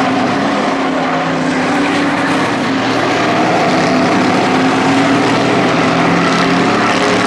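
Engines of several Hobby-class race trucks running at speed around the track, a steady loud drone of overlapping engine tones.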